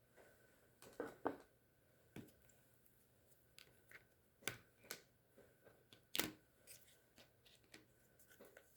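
Faint, scattered clicks and rustles of trading cards in plastic penny sleeves and rigid card protectors being handled, about half a dozen short taps over several seconds, otherwise near silence.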